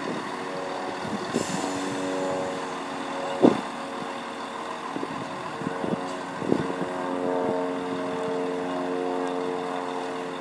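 Passenger multiple-unit train's traction equipment humming steadily at the platform, with a few sharp knocks, the loudest about three and a half seconds in.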